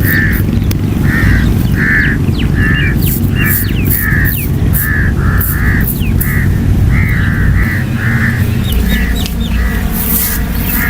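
Birds calling over and over, roughly one to two harsh calls a second, with short higher chirps between them, over a steady low rumble that eases off about two-thirds of the way through.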